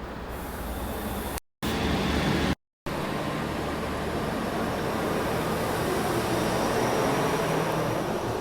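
A passenger train running at the station platform: a steady rumble that swells a little past the middle. The sound cuts out completely twice, briefly, about one and a half and two and a half seconds in.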